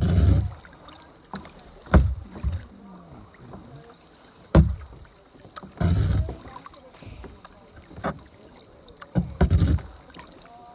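Kayak paddling: about every two seconds a paddle stroke sounds, each beginning with a sharp knock and followed by a heavy splash and swirl of water.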